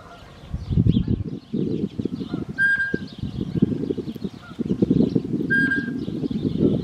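Small birds chirping, with two short clear notes about three seconds apart, over a loud low rumbling noise.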